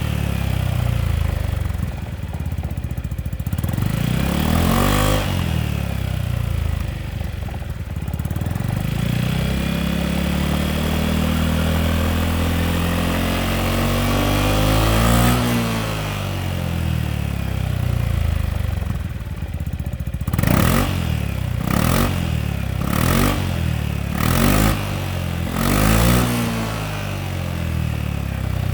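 Yamaha XMAX 300 scooter's single-cylinder engine running through an IXIL aftermarket muffler, being revved: a quick blip about five seconds in, a longer rev that climbs and holds around the middle, then five short sharp blips near the end.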